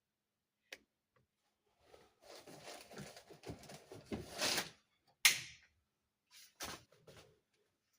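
Hands handling the plastic pieces of a toy dollhouse: a light click, a few seconds of rustling and scraping, then a sharp plastic click about five seconds in and a couple of lighter knocks.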